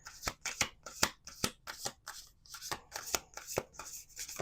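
A deck of oracle cards being shuffled by hand: a quick, uneven run of crisp card slaps and riffles, several a second.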